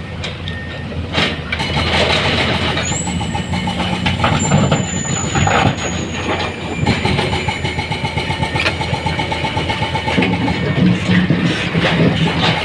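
Heavy truck engine running, with continual rattling and knocking throughout and a thin high whistle that starts about three seconds in and falls slowly.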